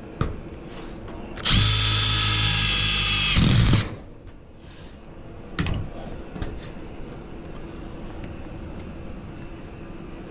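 Cordless power driver running in one steady burst of about two seconds, driving a screw to fasten a cover plate, followed a couple of seconds later by a single sharp click.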